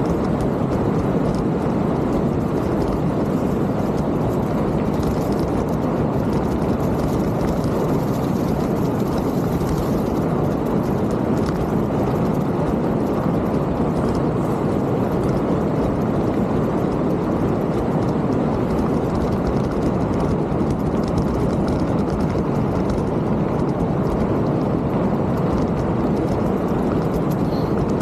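Steady rushing noise of a mountain bike ride: wind buffeting the camera microphone mixed with the tyres rolling over the trail, unbroken and even.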